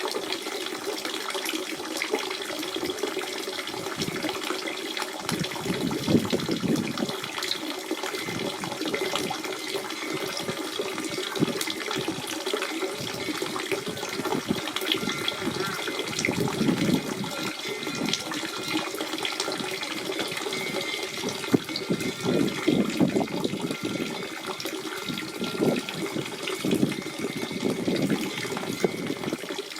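Spring water running and splashing steadily over rocks, a continuous burbling flow with small irregular splashes throughout.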